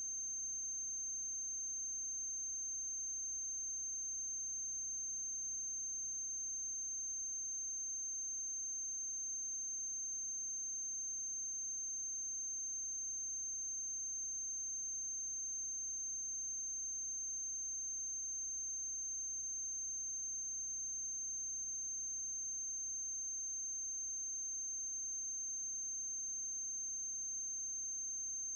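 Steady electrical mains hum with a constant high-pitched whine and faint hiss, the background noise of the film's sound transfer, unchanging throughout; no other sound.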